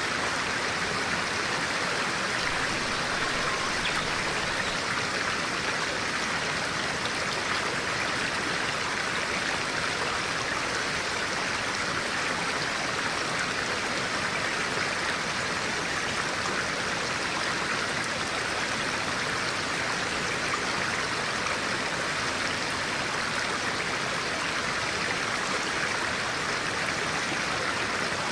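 Stream water flowing steadily, an even, unbroken rush of water.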